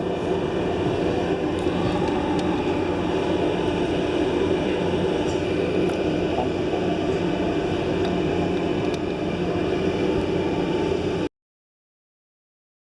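Steady machinery rumble with a low hum, cutting off abruptly about eleven seconds in.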